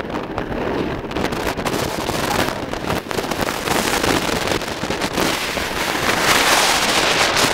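Hurricane wind buffeting the microphone: a continuous rough, crackling rush of gusts that grows louder in the last couple of seconds.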